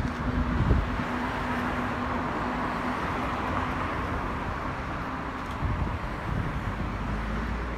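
Freight train hauled by NR class (GE Cv40-9i) diesel-electric locomotives running, a steady rumble and rush of noise with a low engine drone that fades after about three seconds.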